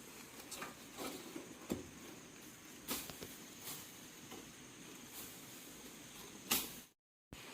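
Irregular light scrapes and clicks over a steady hiss, like hand work on metal parts, with a louder scrape near the end followed by a short dropout.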